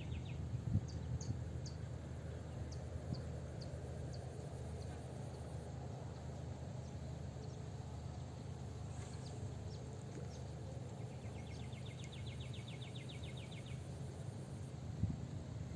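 Swamp-side ambience: an insect trill of rapid, even pulses starts about eleven seconds in and lasts about three seconds, with scattered short bird chirps over a steady low rumble.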